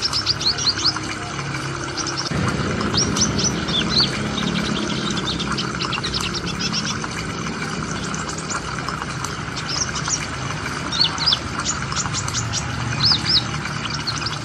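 A small bird chirping: quick clusters of sharp, high, down-slurred notes, repeated in bursts every few seconds over a steady background hum.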